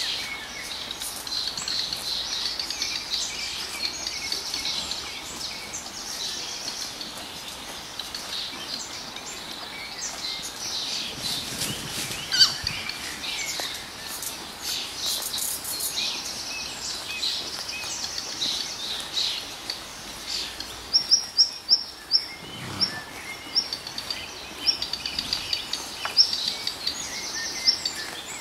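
Songbirds singing and chirping over open pasture, many short high notes overlapping, with a run of sharp, loud chirps about three-quarters of the way through.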